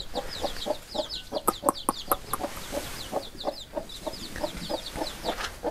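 A hen clucking in short, repeated low notes while her chicks peep continuously in high, falling cheeps.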